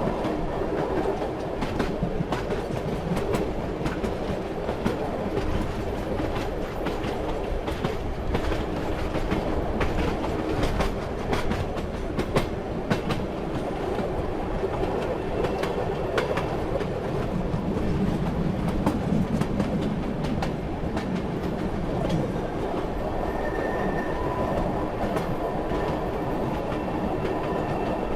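Railway carriage running along the track: a steady rumble with wheels clacking over rail joints, the clicks thickest in the first half. A faint high whine appears briefly later on.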